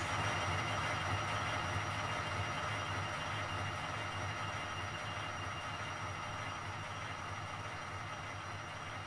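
A train running steadily, a low hum with a faint high whine, slowly fading.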